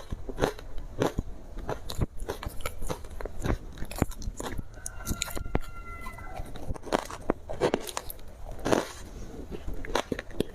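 Ice being bitten and chewed close to the microphone: a dense, irregular run of crisp crunches and crackles.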